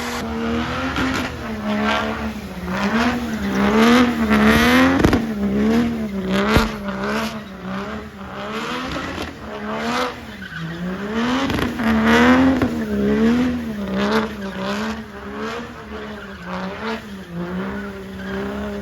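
Engine revved hard and held high, its pitch rising and falling in quick repeated waves, with some tire squeal and a few sharp knocks: a truck burnout.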